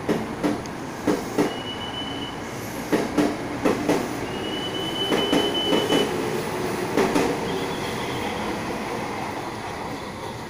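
Commuter electric multiple-unit train running past along the station track. Its wheels clack over the rail joints, mostly in pairs, and give two brief high squeals. The sound fades near the end as the last car moves away.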